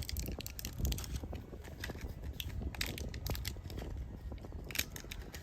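Packaging of an army field ration rustling and crinkling as it is handled, with scattered small clicks and crackles.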